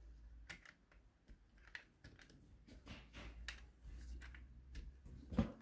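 Faint, irregular clicks and taps of plastic Lego pieces as the built WALL-E model is handled and its arms are moved, with a louder knock near the end.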